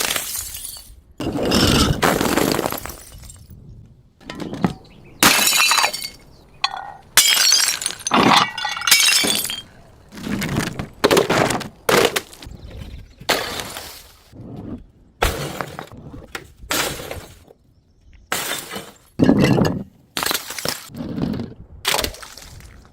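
Glass bottles being broken one after another: a string of separate crashes and crunches, about one every second or two, some with the tinkle of falling shards.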